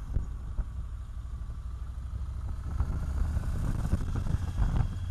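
Motorcycle engine running on the move, with a heavy low rumble. It gets louder and its pitch climbs slowly from about halfway through as the bike speeds up.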